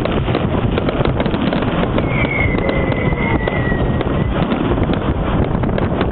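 Fireworks crackling and popping continuously, over wind rumble on the microphone. A high whistle, falling slightly in pitch, runs for about two seconds in the middle.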